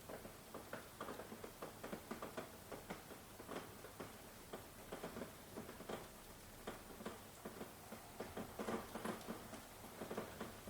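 Rain falling, heard as many irregular drops tapping and dripping on a hard surface over a light hiss.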